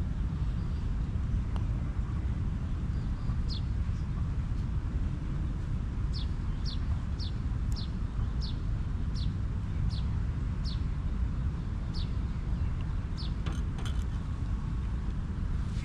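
A bird calling a run of short, high, downslurred notes, about a dozen of them, coming at roughly two a second in the middle of the stretch. A steady low rumble runs underneath.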